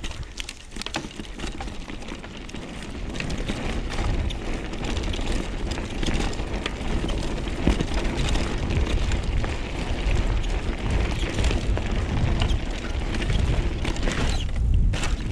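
Wind buffeting the microphone over the rumble of mountain-bike tyres on a dirt and gravel trail, with frequent sharp clicks and clatter from stones and the bike. It grows louder after about two seconds.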